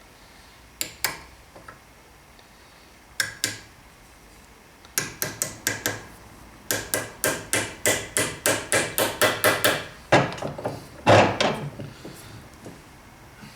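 Hammer striking in a woodworking build: a couple of pairs of light taps, then a quick run of blows at about four a second, ending with two heavier blows.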